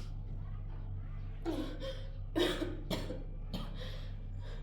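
A person coughing, a run of short coughs starting about a second and a half in, over a steady low hum.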